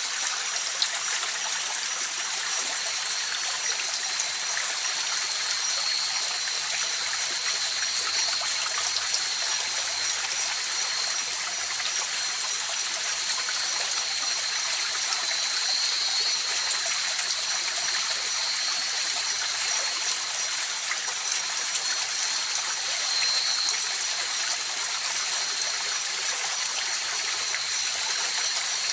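Mountain river flowing steadily, a continuous rush of water. Two thin, steady high-pitched tones run over the water sound throughout.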